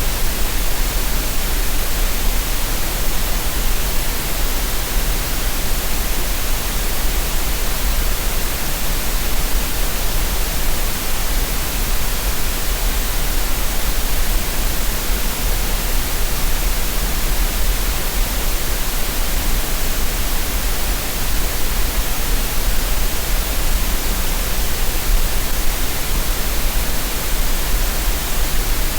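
Green noise for relaxation and tinnitus masking: a steady, unchanging hiss that never varies.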